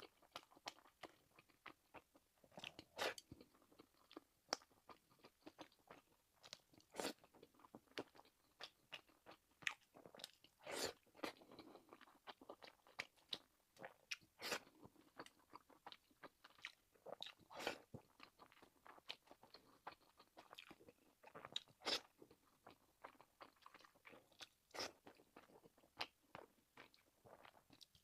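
Close-miked chewing and biting of pork-and-scallion dumplings: irregular short, sharp mouth clicks a few times a second, faint overall.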